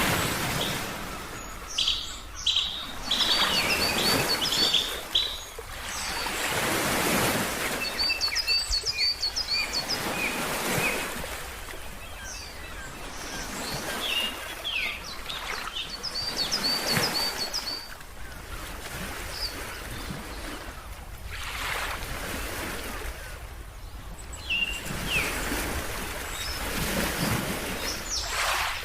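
Ocean waves washing in and out, swelling and falling every few seconds, with birds chirping over them; a bird repeats a quick run of short high notes several times.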